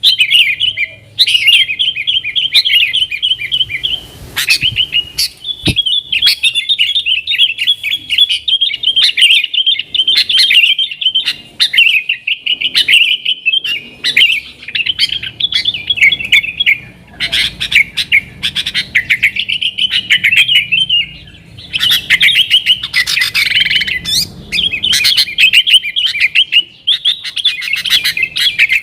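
Yellow-vented bulbul (trucukan) singing in a lively, non-stop chatter: fast, high-pitched twittering phrases run together, broken by short pauses every few seconds.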